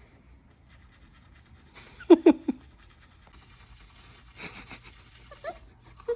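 A person's voice without words: three short pitched bursts like laughter about two seconds in, then breathy exhaled sounds a couple of seconds later.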